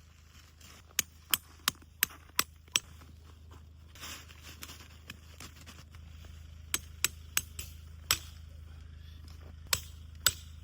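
A run of six sharp knocks, about three a second, starting about a second in, then five more spaced irregularly near the end, over a steady low hum.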